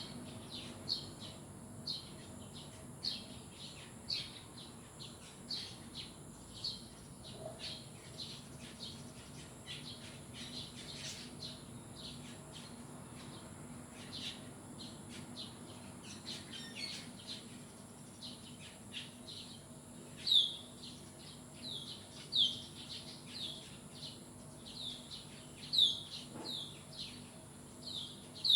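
Birds chirping: short, high, downward-sliding chirps repeated about once a second, with a few louder chirps in the second half over a faint steady hum.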